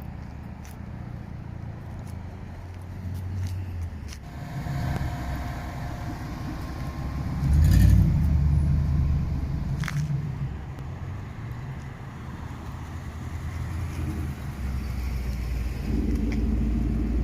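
Car engines running, a low rumble that swells loudest about seven to eight seconds in and again near the end. A sharp click about ten seconds in.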